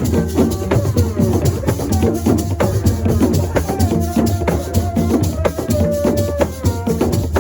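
Senegalese assiko music: fast, dense hand-drumming and shaker rattles over a steady bass, with a held melodic line on top.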